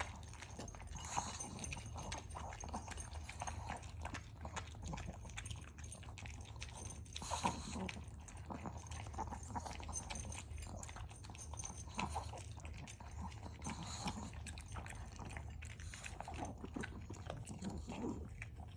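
Small Maltese dog eating dry kibble fast: irregular crunching and clicking of kibble in its bowl, over a low steady hum.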